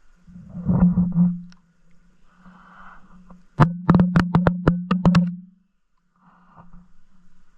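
A steady low hum with a few knocks about a second in, then a quick run of about ten sharp clicks and knocks a little past the middle.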